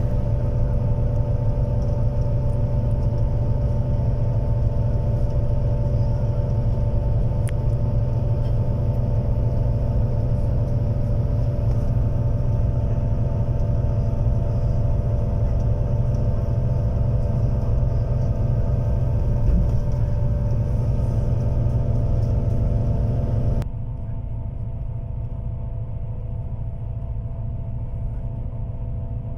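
Steady low rumble of a bus running, with a few steady humming tones over it; about 24 seconds in it drops suddenly to a quieter, duller rumble.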